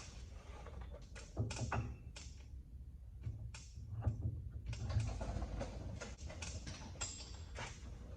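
Irregular clicks, clanks and scrapes of tools and metal parts being handled during truck suspension work, over a low steady hum.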